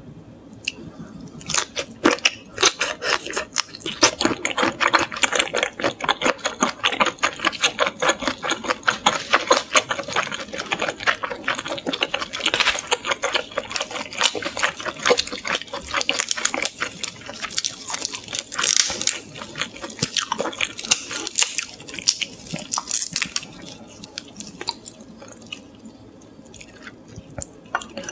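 Close-up chewing of grilled shrimp, heard as a long run of rapid mouth clicks that thins out over the last few seconds.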